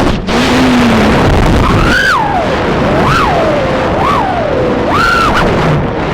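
Brushless motors of a 3-inch FPV quadcopter whining in flight, the pitch rising and falling about five times as the throttle is punched and eased, over steady rushing noise.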